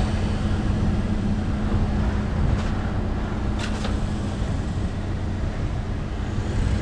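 A motor vehicle's engine running with a steady low rumble and hum; the hum drops away a little past halfway. Two light clicks sound near the middle.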